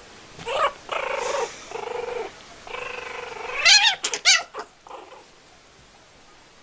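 A cat yowling in drawn-out threatening wails, rising to a few short, sharp screeches about four seconds in, then dying away: the defensive caterwaul of a cat squaring off against a dog.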